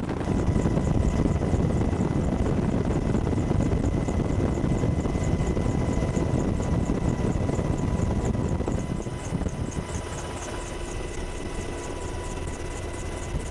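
Apache attack helicopter running, a steady heavy rumble of rotor and engine noise with a faint rhythmic high ticking over it. It drops in level about nine seconds in.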